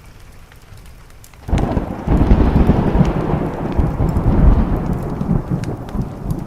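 A thunder clap breaks in suddenly about a second and a half in and rolls on as a deep rumble that slowly fades. Before it, a wood fire crackles faintly.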